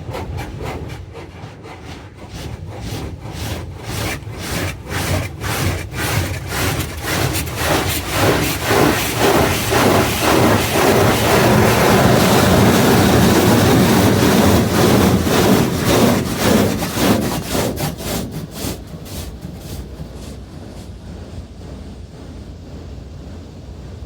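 A NeXus Crossfire automatic car wash working over a truck, heard from inside the cab: a fast, rhythmic beating against the body. It builds to its loudest about halfway through, then fades away.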